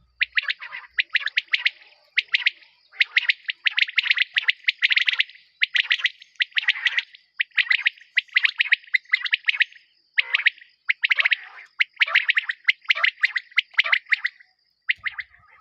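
A bird chirping in quick runs of short high notes, many to the second, in bursts under a second long separated by brief pauses.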